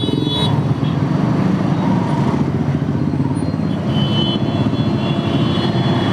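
Motorcycle engine running at low speed in a dense traffic jam, a steady, rapidly pulsing rumble picked up by a helmet-mounted camera, with the surrounding traffic around it.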